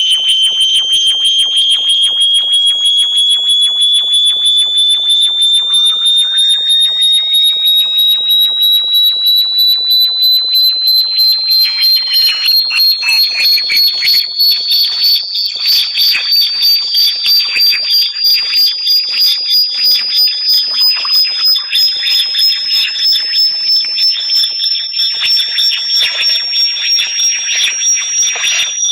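Electronic high-pitched "bat repellent" tone, pulsing rapidly and gliding slowly upward in pitch, with fainter, higher tones above it.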